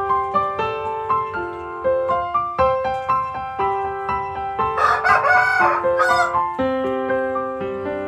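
Piano music playing, with a rooster crowing once, for about a second and a half, about five seconds in.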